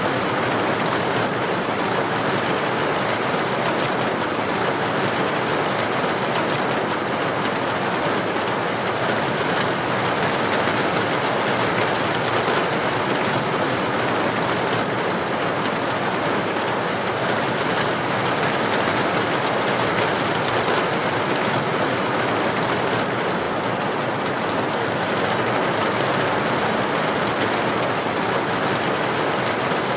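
Heavy rain falling steadily on a paved street, an even, unbroken hiss with no thunder in it.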